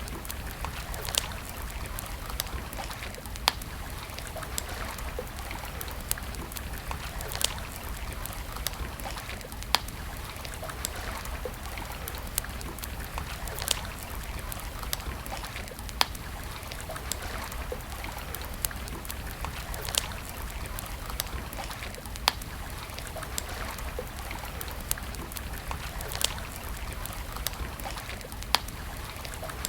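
Campfire crackling: a steady hiss of burning wood broken by sharp pops every couple of seconds, with smaller crackles between, over a low rumble.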